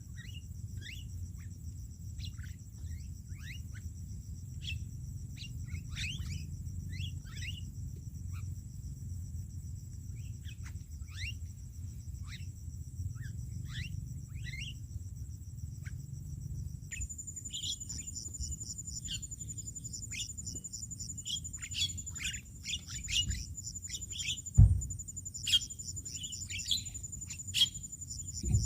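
Starlings giving short, falling chirps over and over, busier in the second half, over a steady high insect buzz. A single sharp knock about 24 seconds in.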